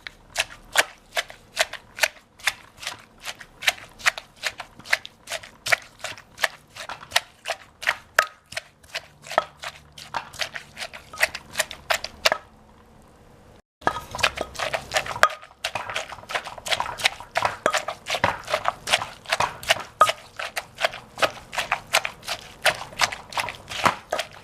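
Pestle pounding green papaya salad in a mortar: steady, regular strikes, about two to three a second. The pounding stops for about a second midway, then carries on.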